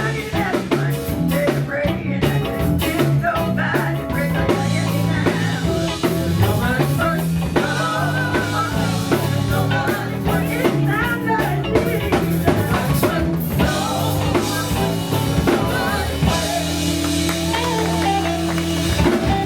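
Live gospel band playing, with drum kit, electric bass and guitar under a singing voice.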